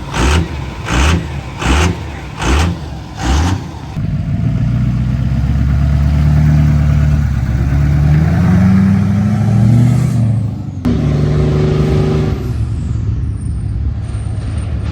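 Diesel pickup engine revved in short, even blips about twice a second, then held running loud with the revs climbing. It changes abruptly partway through to another steady engine sound.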